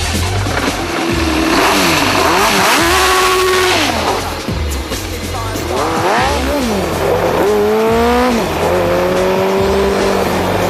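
Kart's Suzuki GSX-R1100 inline-four motorcycle engine revving up and down as it is driven, the pitch climbing and falling several times with a quick shift about eight seconds in, then holding steady. Electronic music with a heavy pulsing bass beat plays underneath.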